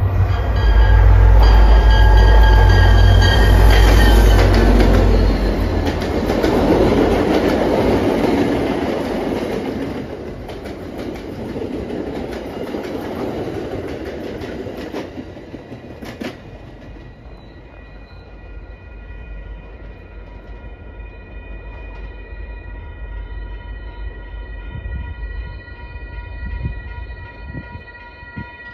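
Commuter train led by a diesel locomotive passing close by: heavy engine rumble with a brief horn blast at the start, then the coaches' wheels running over the rails. After that the sound fades as the train moves away, leaving faint steady ringing tones.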